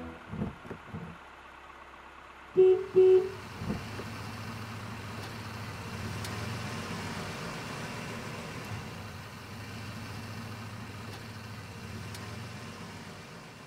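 Cartoon truck sound effects: two short horn beeps about two and a half seconds in, then the truck's engine running steadily as it drives off, fading near the end.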